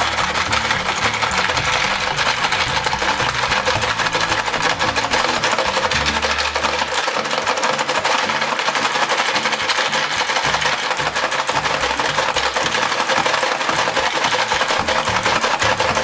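Rapid, continuous clattering of a plastic toy ball-grabbing game, its levers and mouths snapping and the plastic balls and gumballs rattling, over background music.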